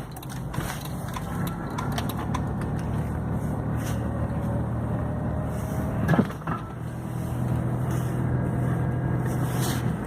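Car engine running with a steady low hum, broken by a few short clicks and knocks.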